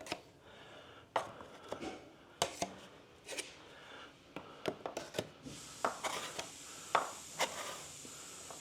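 Steel plastering knife scraping and clacking as cornice cement is pressed into and smoothed over a drywall repair: a string of irregular short scrapes and clicks.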